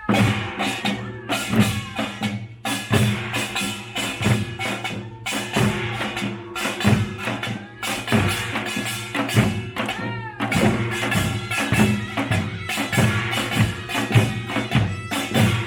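Korean pungmul folk percussion band playing: fast, dense drum strokes with ringing metal gongs over them.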